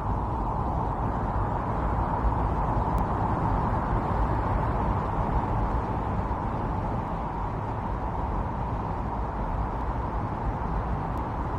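Steady storm wind: a continuous rushing noise with no gusts, breaks or other events.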